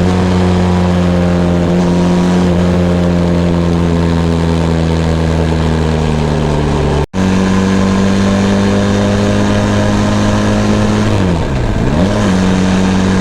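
Benelli TRK 502 X's parallel-twin engine running under way, its pitch sagging slowly. Sound drops out briefly about seven seconds in, then the engine holds steady until, about eleven seconds in, its revs dip sharply and climb back up.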